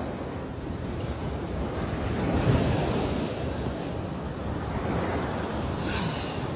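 Ocean surf washing onto the beach, with wind rumbling on the microphone. The wash swells briefly about two and a half seconds in.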